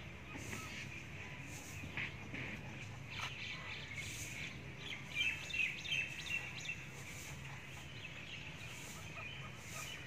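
Birds calling in short chirps, thickest and loudest in a cluster about five to six and a half seconds in, over a steady low background hum.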